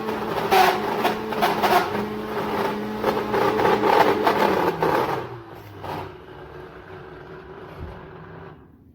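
Vacmaster 6-gallon wet/dry shop vacuum's motor running with a steady hum and a crackling rattle. About five seconds in it is switched off: its pitch falls as it winds down, leaving a fainter hum that dies away near the end.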